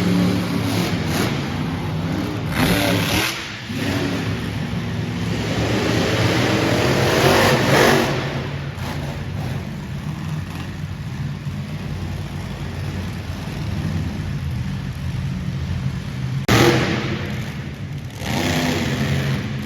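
Monster truck engines running loudly, with several sharp revs of the throttle rising and dropping away.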